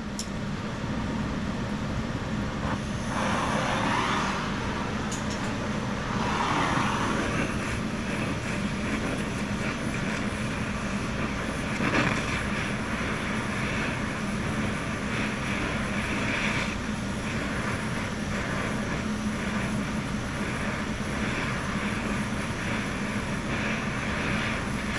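Oxy-fuel cutting torch flame hissing steadily as it heats the cast-iron exhaust manifold around a rusted, seized stud to free it.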